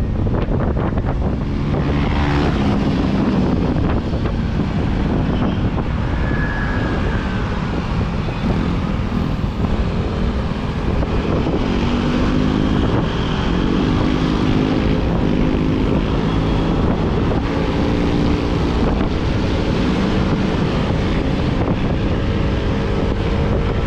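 Motorcycle ride recorded on a helmet or bike camera: heavy wind buffeting on the microphone over a scooter engine whose note rises and falls with the throttle.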